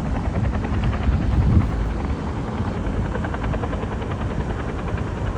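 Helicopter running steadily with its rotor beating in a fast, even chop, briefly louder about a second and a half in.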